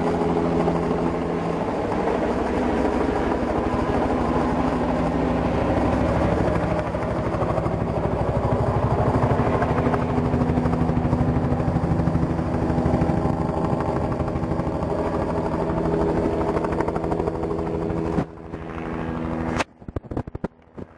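Police helicopter passing close overhead, its rotor and engine loud and steady with a fast pulsing beat. The sound drops off suddenly near the end.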